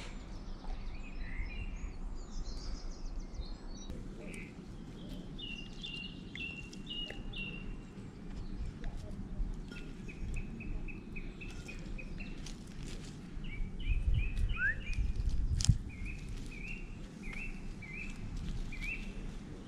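Birdsong: a small bird repeating short chirping phrases again and again over a steady low outdoor rumble, with a few clicks and knocks partway through.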